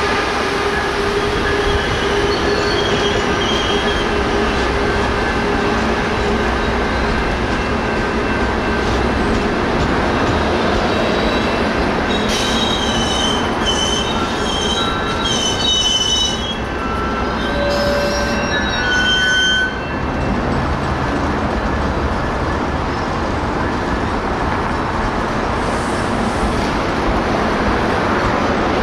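Coaster commuter train of bilevel coaches rolling along the rails, a steady heavy rumble with high-pitched wheel squeal. Around the middle the squeal sharpens into several short shrill squeaks.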